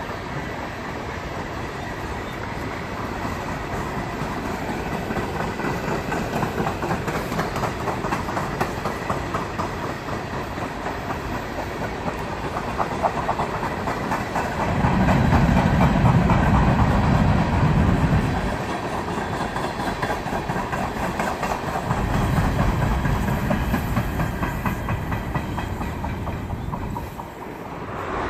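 Empty coal hopper cars of a long freight train rolling past, wheels clattering steadily over the rail joints, with two stretches of heavier low rumbling in the second half. The sound drops away sharply at the very end.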